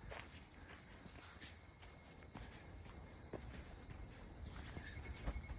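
A steady, high-pitched chorus of insects singing in summer woodland, with faint footsteps on the trail underneath.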